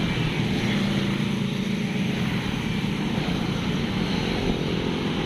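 A vehicle engine running steadily at an even pitch, with road and wind noise.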